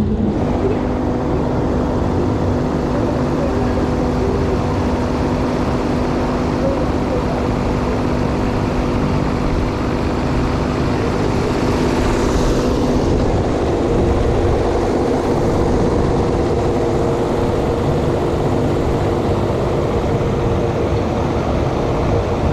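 Fairground thrill ride's machinery running, a steady mechanical hum of several tones over a constant rushing rumble.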